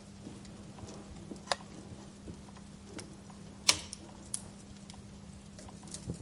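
Wood fire crackling, with irregular sharp pops and snaps; the loudest pop comes just under four seconds in.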